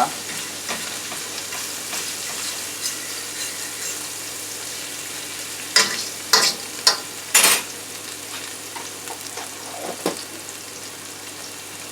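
Garlic paste sizzling in hot oil in a frying pan, a steady hiss. A few short knocks and scrapes, a fork against the pan, come about halfway through.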